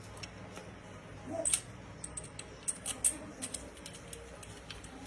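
Scattered light metallic clicks and clinks of hand tools and engine parts being handled, a few sharper ones about a second and a half in and around three seconds in.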